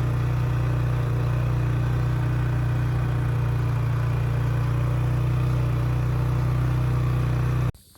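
A motor vehicle's engine running steadily at one constant speed, close by. It cuts off abruptly near the end.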